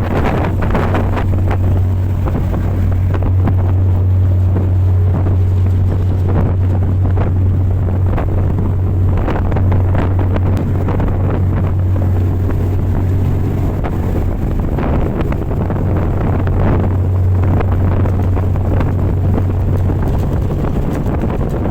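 High-speed boat under way: a steady low engine drone, with wind buffeting the microphone in irregular gusts.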